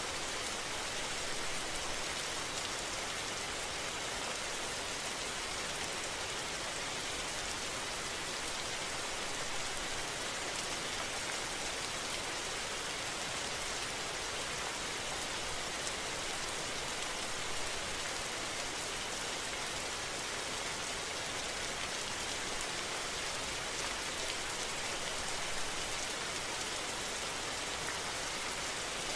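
Steady rain falling, a constant hiss with a fine patter of drops.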